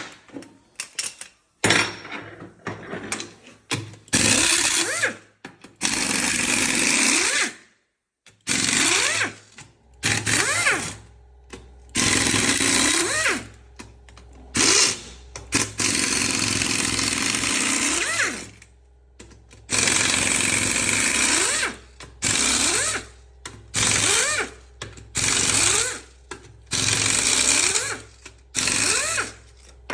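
Power tool run in repeated bursts of one to three seconds, some spinning up with a rising whine, as bolts are taken out of a Fiat Siena gearbox being stripped down.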